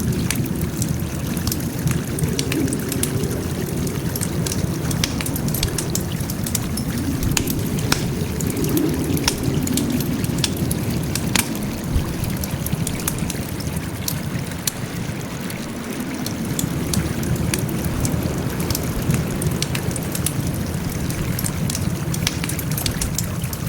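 Wood fire crackling, with many small sharp pops scattered over a low, steady rumble of burning.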